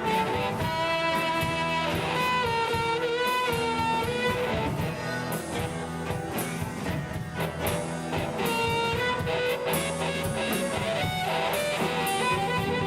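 Live rock band playing an instrumental break: strummed electric guitar over drums, with a wavering lead melody on top.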